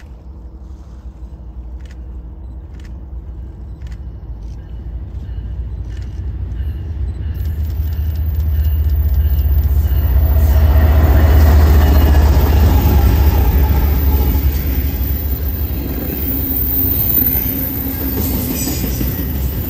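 A train approaching and passing close by: a low rumble with rolling wheel noise that builds steadily, is loudest about eleven seconds in, and then eases off a little as the cars roll past.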